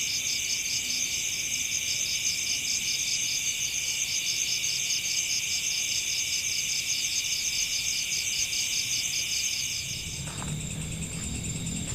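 Night chorus of crickets and other insects: a steady high ringing with a fast pulsing trill on top, which shifts higher and thins about ten seconds in.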